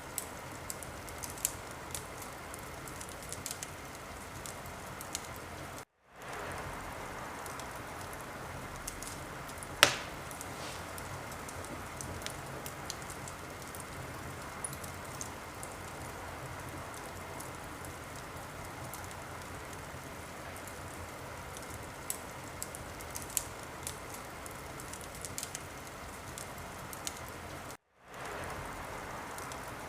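Wood fire crackling: a steady hiss with frequent small pops and one loud pop about a third of the way through. The sound cuts out twice, briefly, and fades back in.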